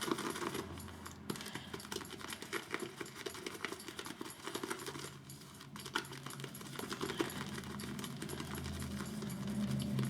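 Synthetic shaving brush whipping shaving soap into lather in a bowl: fast, continuous swishing and clicking strokes.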